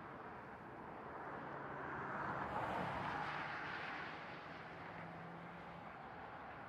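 Jet noise from a Boeing 747-400's four turbofan engines: a steady rush that swells to a peak about three seconds in and then eases off, with a faint low hum underneath.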